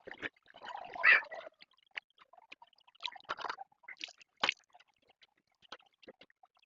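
Water splashing and dripping while the motorcycle is washed, loudest about a second in, followed by scattered small clicks and taps.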